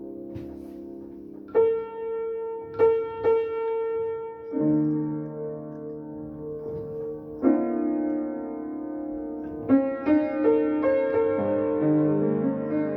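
Solo piano improvisation: slow, held chords and single notes struck every second or few and left to ring.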